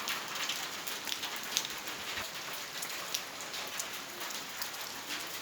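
Steady rain falling hard, a continuous hiss with scattered individual drops landing close by.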